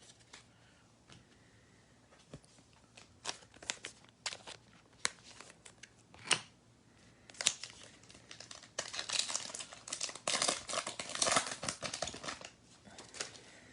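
Trading card pack being opened and handled: scattered ticks and taps of cards and wrapper, then a longer stretch of wrapper crinkling and tearing in the second half.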